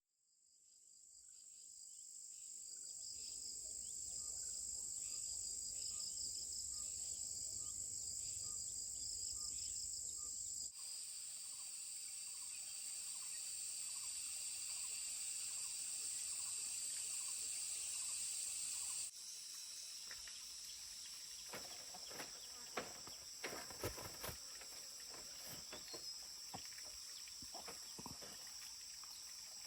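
Steady high-pitched insect chorus that fades in at the start. Light clicks and knocks are scattered through the last ten seconds.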